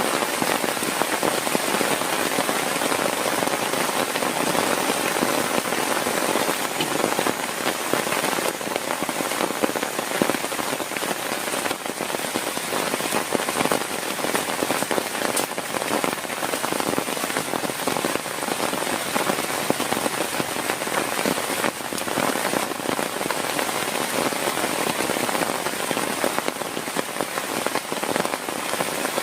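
Heavy rain falling steadily, a dense, even patter of many drops on a surface.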